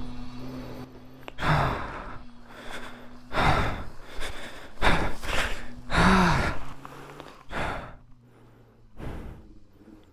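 A person's heavy breathing: breathy gasps and sighs every second or two, over a steady low hum.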